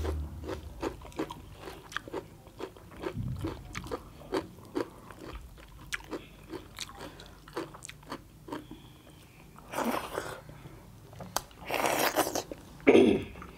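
Close-up eating sounds: people chewing and biting with a quick run of crunchy clicks, about two to three a second. A few longer, louder mouth noises come near the end.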